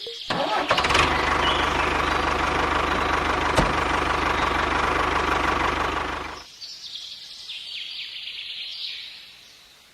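Small engine running steadily with a fast, even low pulse, cutting off abruptly about six and a half seconds in. Quieter high chirps follow and fade away.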